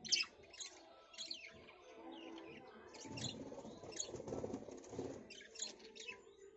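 Small birds chirping: short, high calls that drop quickly in pitch, repeated at irregular intervals over a faint low rumble.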